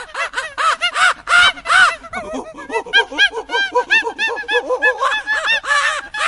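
A flock of birds calling, many short arched calls a second overlapping one another.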